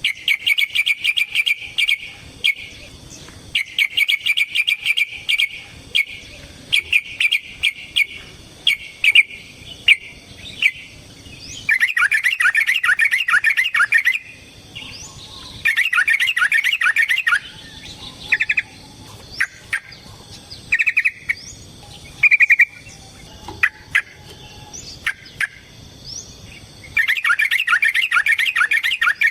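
Yellow-vented bulbul (trucukan) singing in repeated runs of rapid chattering notes, each run lasting one to two seconds. Short single calls fall in the pauses between runs.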